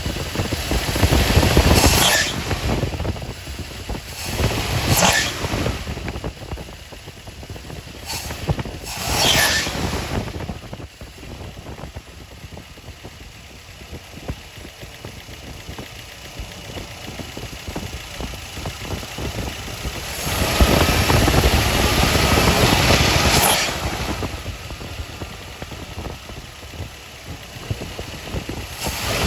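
Ford 351 Cleveland V8 with Holley Sniper throttle-body fuel injection, running with a steady low rumble. It rises in several short surges and one longer one about two-thirds of the way through, as the throttle is opened. The engine bogs and runs lean when given throttle, which the owner suspects is a fuel pressure problem.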